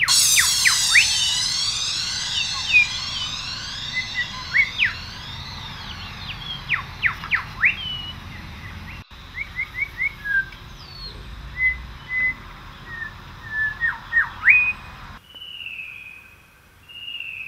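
A chorus of wild birds singing: many short, sharp whistled notes that sweep up and down, over a dense high twittering that fades after the first few seconds. The recording changes abruptly twice, ending with slurred, wavering whistles.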